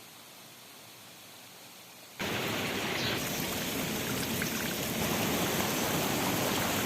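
Rushing water of a stream or cascade: a steady, even hiss that cuts in suddenly and loudly about two seconds in, after a faint hiss.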